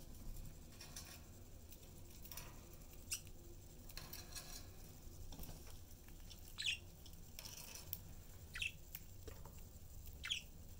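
Budgerigars giving short, high chirps, three of them a couple of seconds apart in the second half, over light scratching and pecking clicks.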